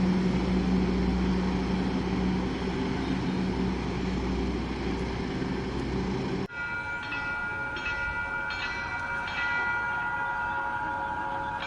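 A diesel locomotive's engine running as a train moves, a steady low drone with broad rumble. About six seconds in it cuts off suddenly, and a ringing signal of several steady high tones follows, repeating about twice a second.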